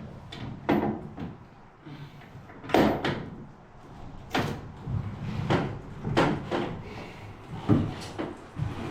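A boat hatch being opened by hand: a run of irregular knocks and clunks, the loudest about three seconds in.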